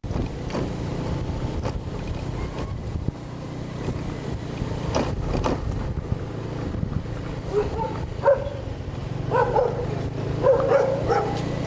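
A dog barking several times over a steady low engine rumble. The barks start a little past halfway.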